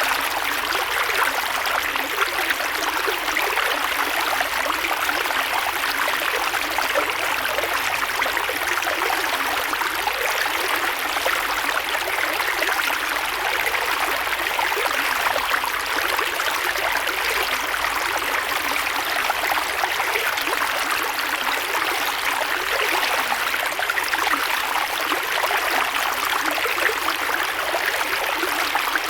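Creek water flowing and babbling over stones, a steady rushing splash with fine trickling detail.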